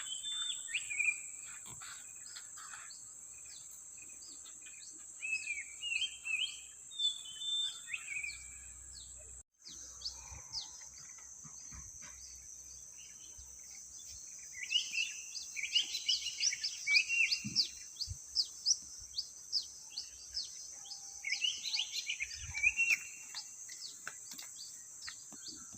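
Songbirds singing in short warbling phrases, coming in several bouts, over a steady high-pitched insect drone. The sound drops out for a moment about nine and a half seconds in.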